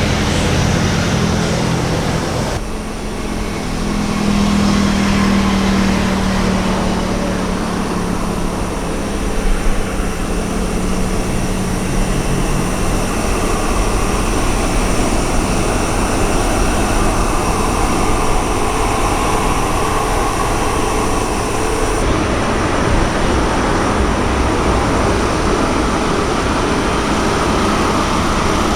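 Jet airliner engines running loud and steady. The sound changes abruptly about two and a half seconds in and again about two-thirds of the way through.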